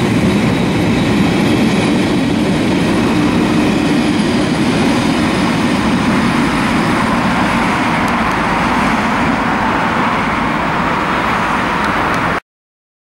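Freight train of container wagons rolling past on the rails as it pulls away, a steady rumble and rattle of steel wheels and wagons. It cuts off abruptly near the end.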